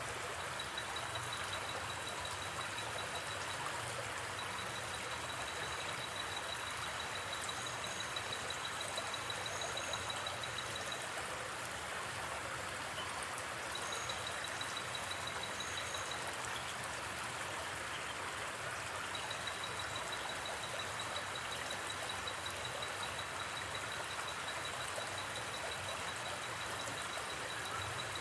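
River water flowing steadily with an even rushing sound. Over it, a high, rapidly pulsing insect trill, like crickets at night, stops and starts several times, with a few brief higher chirps.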